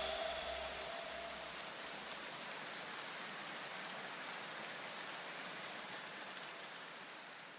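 A faint, steady hiss like light rain or static, fading away near the end.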